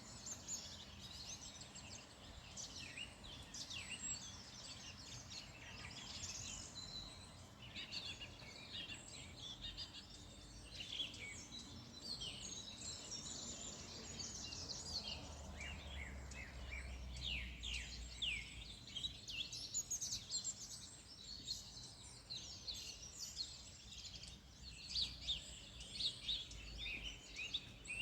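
Several small birds chirping and singing busily, many short quick notes overlapping throughout. A faint low rumble lies underneath for a few seconds about halfway through.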